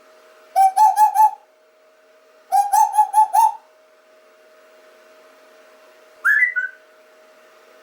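Three bursts of loud whistle-like calls, each a wavering tone with a quick warble; the last is short and rises then falls. A faint steady hum runs underneath.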